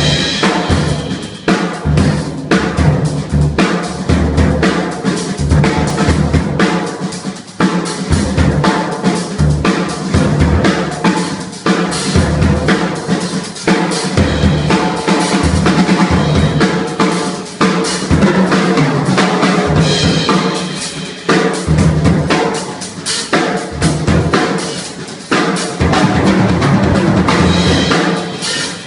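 Macassar ebony jazz drum kit played live, a continuous groove of bass drum, snare with rimshots, toms and cymbals.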